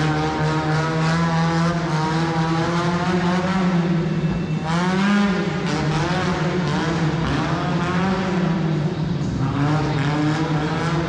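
Monster truck engine running loud and steady, revving up about four and a half seconds in and again near the end.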